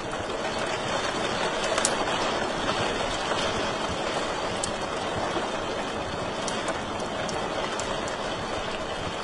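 Wood fire crackling in a fireplace: a steady hiss with sharp pops scattered at irregular moments.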